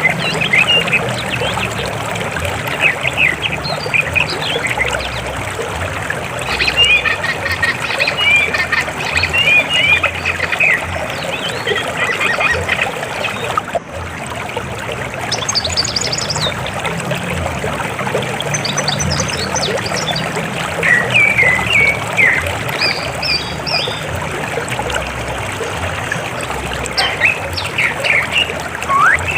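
River water flowing steadily, with small birds chirping and calling in short, quick phrases over it throughout.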